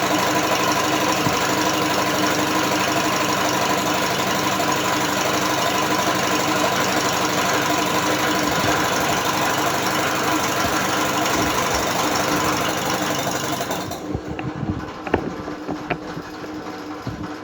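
Electric drill spinning a British Seagull outboard motor, a steady mechanical whir with a constant whine. About fourteen seconds in the running cuts out, leaving a few scattered knocks and clicks.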